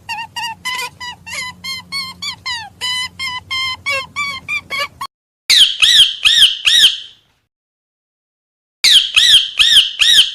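Farm animal calls, squawk-like: a rapid run of short calls, about four a second, for roughly five seconds, then two identical sets of four louder squawks with a pause between them.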